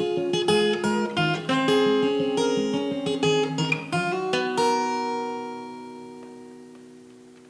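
Acoustic guitar outro: picked and strummed notes, then a final chord struck about four and a half seconds in that rings out and slowly fades.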